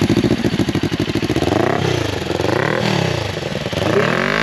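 Kawasaki Ninja 400's 399cc parallel-twin engine running through an Akrapovic exhaust with the dB killer fitted, revved in three short blips over idle. It has a smooth, soothing sound.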